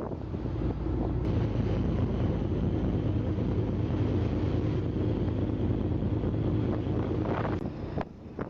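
Wind buffeting the microphone over a steady low rumble and hum of a ship at sea. The sound changes abruptly about a second in and again near the end.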